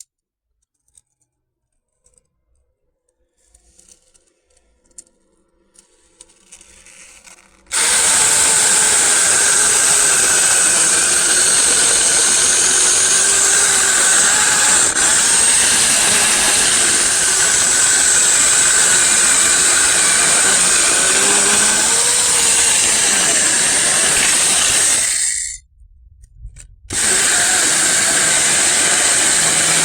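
SEESII 6C10SM 6-inch cordless mini chainsaw running: a loud, steady electric motor and chain whine that starts suddenly after several quiet seconds of faint clicks. It cuts off for about a second near the end, then starts again.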